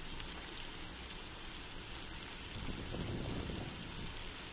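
Onions, tomatoes and green chillies frying in hot oil in a metal pot: a steady sizzling hiss with fine crackles.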